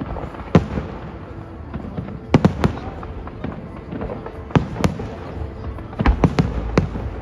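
Fireworks shells bursting in the sky: about ten sharp bangs, coming singly and in quick clusters of two or three.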